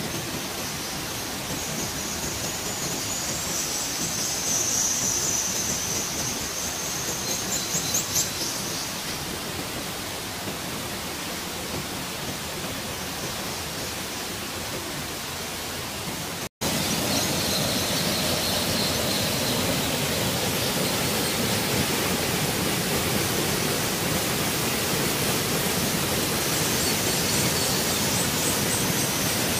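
Steady rush of a waterfall falling into a pool inside a rock sinkhole, with high-pitched screeching calls of biscutate swifts echoing in the cave, strongest a few seconds in and again near the end. The sound cuts out briefly a little past halfway, and the water is louder after that.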